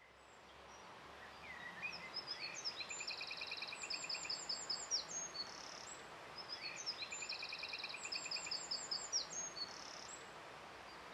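A songbird singing over a faint steady hiss: a phrase of chirps and rapid trills lasting about four seconds, heard twice. The sound fades in at the start.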